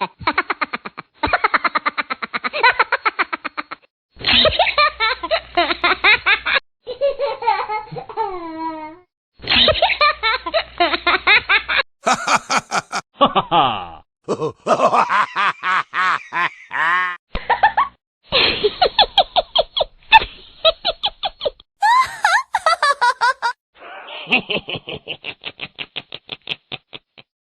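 A run of about a dozen different laughter sound effects played back to back, each a few seconds long with short gaps between: rapid rhythmic "ha-ha" laughs, some high-pitched and bright, some sliding down in pitch.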